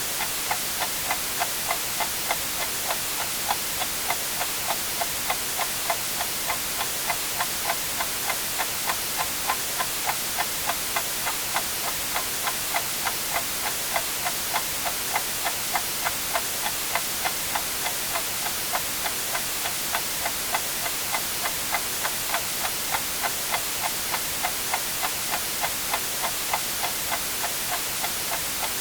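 A clock ticking at a steady, even rate over continuous white noise, a constant hiss that is strongest in the high frequencies.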